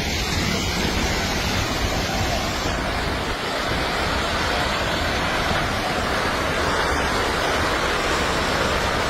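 A landslide's steady, loud rushing roar with a low rumble underneath, like a raging river.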